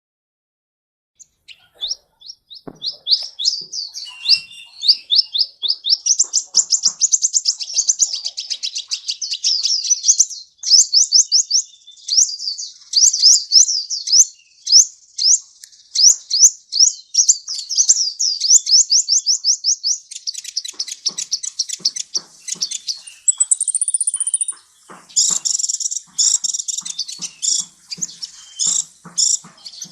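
Sunbird song: fast, high twittering trills of short rising and falling notes, starting about a second and a half in and running on densely, with a brief higher whistle a little past the middle.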